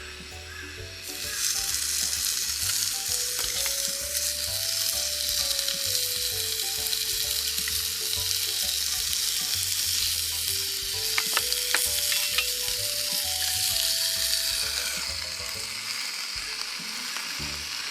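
Food sizzling in a hot pan, the hiss jumping up loud about a second in and easing off a little near the end, with a few sharp clicks around the middle.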